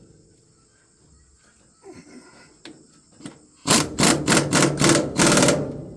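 Impact wrench tightening a bolt in a quick run of short hammering bursts, about four a second, that run together into one longer burst near the end.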